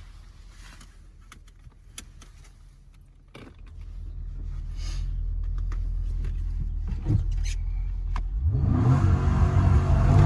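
Porsche Panamera 4S's 4.8-litre V8 running at a low hum with a few scattered clicks. About three and a half seconds in it gets louder, and near the end it revs up sharply, rising in pitch as the car accelerates.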